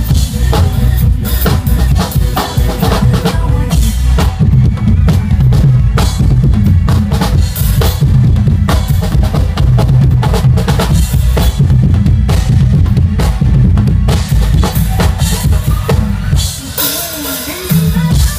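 Drum kit played along to a pop backing track, with bass drum and snare hits packed tightly in a steady driving beat. The drumming eases off briefly near the end, leaving the backing melody, then picks up again.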